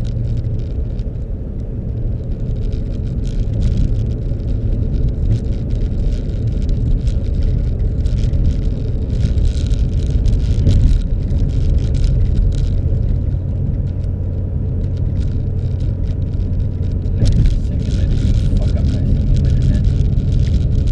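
Car running, a steady low engine and road rumble with many brief light clicks and rattles over it.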